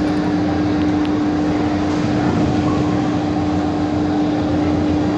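A steady mechanical drone: a constant hum over an even rush of noise, holding level throughout.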